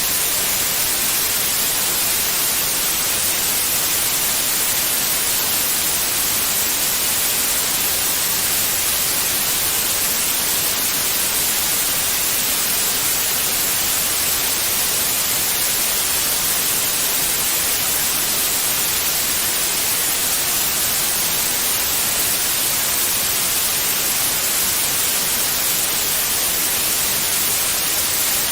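Steady white noise: an even, unchanging hiss strongest in the high frequencies, played as a soothing sound for babies.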